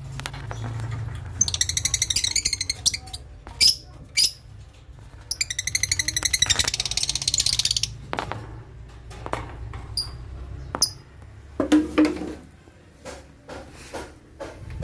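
Lovebirds calling: two long runs of rapid, shrill chattering, then scattered short high chirps and clicks.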